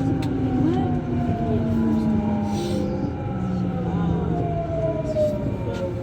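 Rubber-tyred Lyon Metro line B train running in the tunnel: a low rumble under a traction whine of several tones that slowly fall in pitch.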